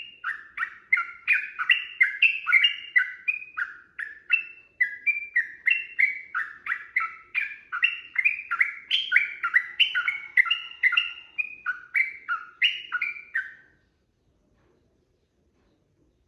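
Yellow-vented bulbul (trucukan) singing a long, rapid run of bubbly, pitch-bending notes, about three a second, until it breaks off near the end.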